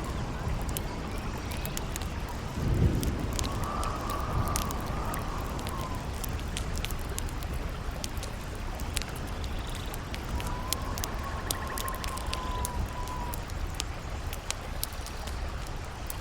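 Campfire crackling with frequent sharp pops over a steady rush of river water and wind. A howling wind whistle rises and falls three times, and a short low rumble comes about three seconds in.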